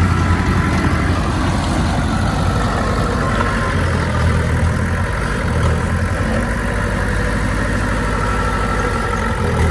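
Heavy diesel engine of earthmoving machinery running steadily at low revs.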